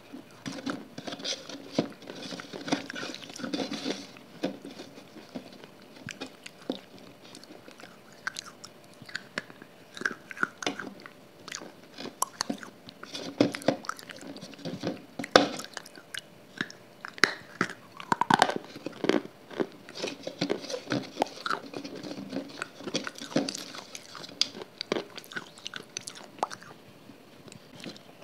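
Close-miked mouth sounds of a person biting and chewing soft, wet grey chunks, with many short crunchy clicks at irregular intervals.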